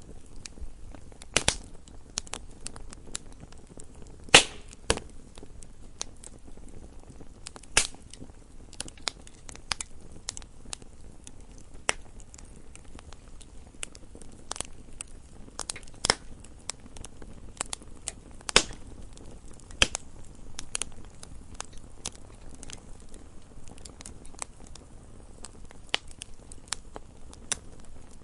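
Wood fire burning in a fireplace: irregular crackles and sharp snaps from the burning logs, a few louder pops among them, over a faint low hiss.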